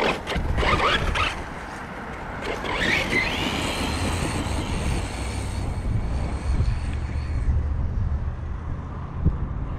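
Battery-electric Redcat Shredder 1/6-scale RC truggy running: a few sharp clicks at first, then the high whine of its electric motor comes up about two and a half seconds in and fades out about five seconds later, over a steady low rumble.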